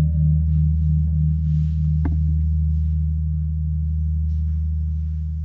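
Large temple gong ringing after being struck, a deep steady hum with a slow pulsing beat. A light knock comes about two seconds in.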